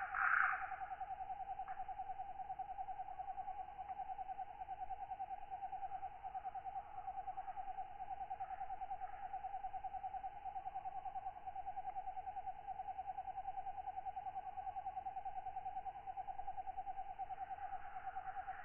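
Katydids and other night insects calling: a steady, rapidly pulsing trill throughout, with a louder, higher buzzing call in the first half-second and again near the end.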